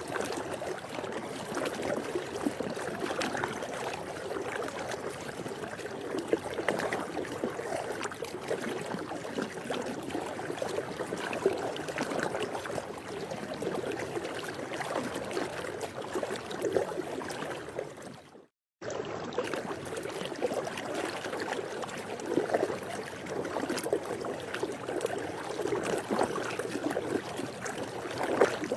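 Swimming pool water lapping and trickling: a steady wash of small splashes. About two-thirds of the way through it fades out to a moment of silence, then starts again.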